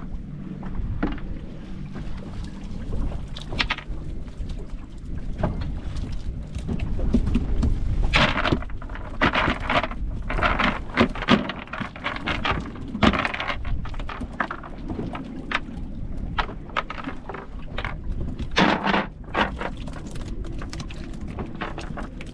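Wind and water noise aboard a small boat in rough conditions, with a run of short, sharp knocks, busiest from about eight to fourteen seconds in and again around nineteen seconds.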